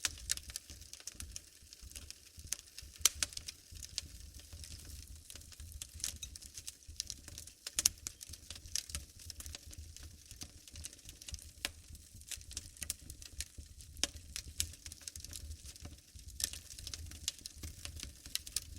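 Wood fire burning in a fireplace: irregular sharp crackles and pops over a low rumble of the flames, the loudest pops about three and eight seconds in.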